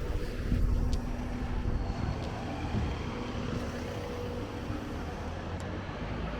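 City street traffic: a steady low rumble of vehicles with a faint steady engine hum and a few light clicks.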